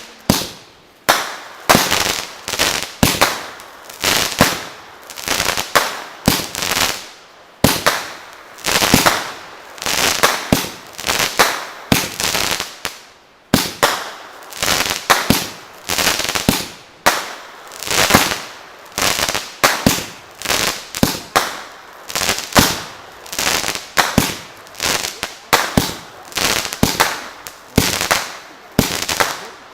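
Consumer fireworks going off in a long, rapid string of sharp bangs, about one to two a second, each fading quickly, with a couple of brief pauses.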